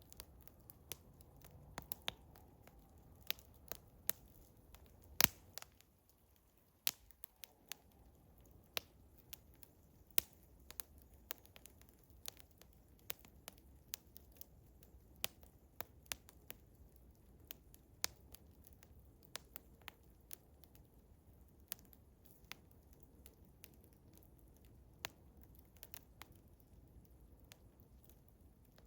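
Eastern hemlock campfire crackling, with irregular sharp pops and one louder snap about five seconds in, over a faint low rumble.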